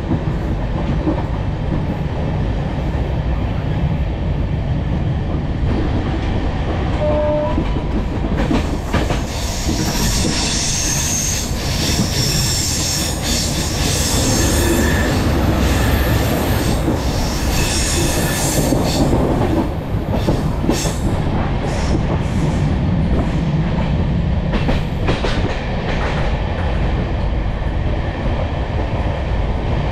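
Passenger coach of an express train running at speed, heard from an open doorway: a steady rumble of wheels on the track, with rail-joint clatter. A harsher, high-pitched hiss and rattle rises about 9 seconds in and lasts about ten seconds.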